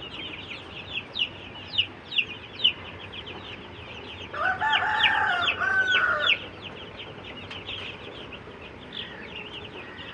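A group of young chicks peeping continuously with rapid, high, falling cheeps. A louder, lower call from an older fowl lasts about two seconds near the middle.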